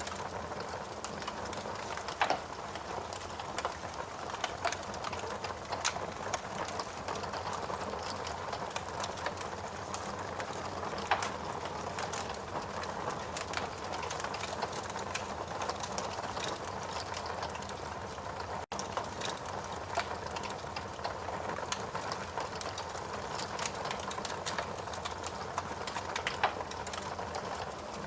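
Wood fire crackling in a fireplace: a steady hiss of burning with many small crackles and a few louder pops.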